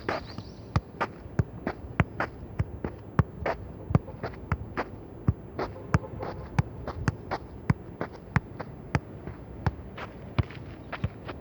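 A football being kicked and bounced on a playground, about two to three sharp hits a second, at an uneven pace.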